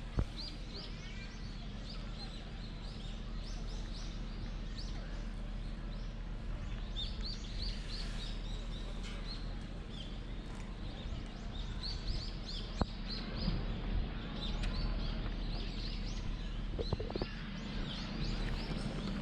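Small birds chirping in the trees: many short, sharp calls repeating throughout, over a steady low background rumble.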